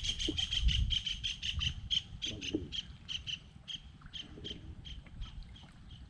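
A bird calling: a fast run of short, high, repeated notes that slows and fades over about five seconds, over a low rumble.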